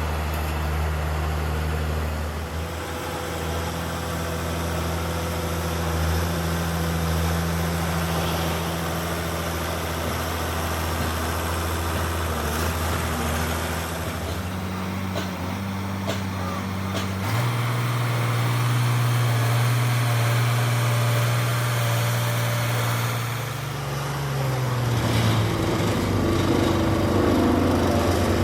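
HAMM road roller's diesel engine running steadily; its speed steps up about two-thirds of the way through and drops back near the end.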